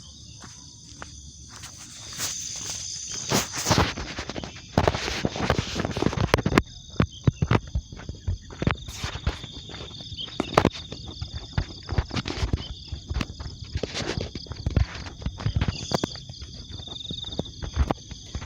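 Steady high-pitched insect chirring, with many irregular crunches and knocks on top that are densest in the first half.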